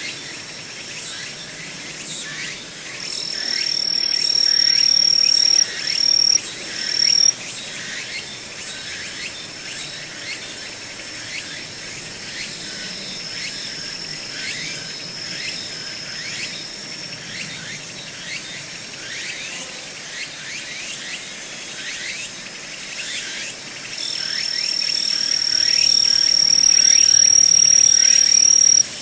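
Forest ambience of singing insects. A continuous high trill swells loud twice, for a few seconds after the start and again near the end, and breaks off in short gaps each time. Beneath it runs a constant chorus of short falling chirps.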